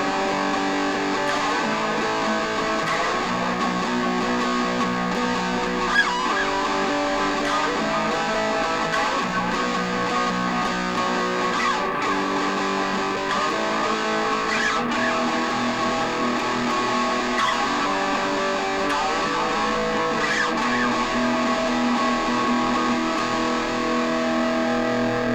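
Instrumental ending of a rock song, guitar playing sustained chords that change every few seconds, with no vocals.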